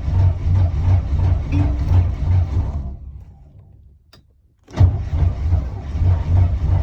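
Chevy 454 big-block V8 running rough and uneven just after a frozen cold start, then dying out about three seconds in. After a click about a second later, it fires again suddenly and runs rough.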